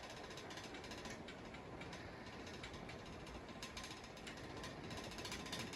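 Murray Feiss C52 hugger ceiling fan running on high, faint and steady, with a light rattling from its schoolhouse globe light kit, which has not been tightened down fully.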